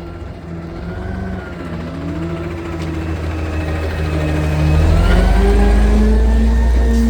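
Garbage truck's diesel engine revving up, its pitch climbing and its level growing into a loud low rumble in the last two seconds.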